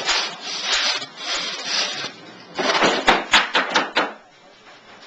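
Hand work on a window frame during glass pack replacement: rubbing and scraping for about two seconds, then a quick run of sharp clicks and knocks, then quieter.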